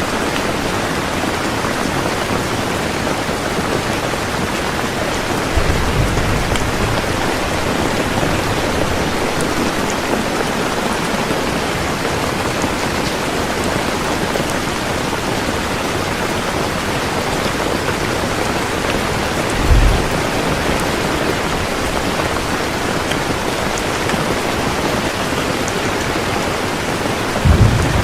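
Heavy rain falling steadily in a dense, even hiss. Brief low rumbles of distant thunder come about six seconds in, again around twenty seconds, and once more at the very end.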